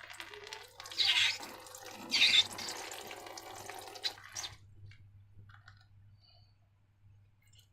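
Wet slime being squeezed and poured: two short, loud, splashy gushes about a second apart, then a softer wet trickle that stops about halfway through, leaving only a few faint clicks.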